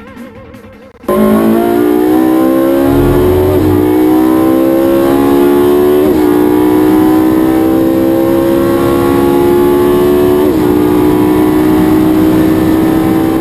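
Race car engine at full throttle, its pitch climbing steadily with three quick upshifts. Each shift is a brief dip in pitch before the climb resumes.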